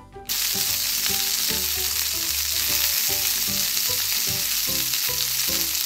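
Dubbed frying sound effect: a steady sizzling hiss, as of chicken frying in hot oil, that switches on suddenly just after the start. Light background music plays softly under it.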